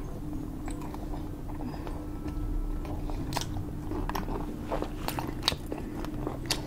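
Close-miked chewing of air-fried pork belly (liempo): mouth clicks and small crunches, sparse at first and more frequent from about three seconds in, over a steady low hum.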